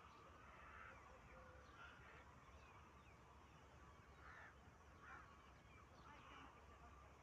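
Faint bird calls: a handful of short calls, irregularly spaced, over a low steady background hum.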